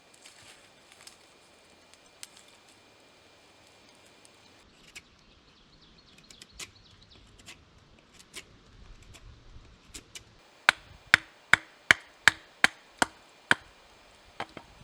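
Chopping strikes on wood: a few scattered light knocks, then a quick run of about eight sharp, loud blows, two or three a second, and one more near the end.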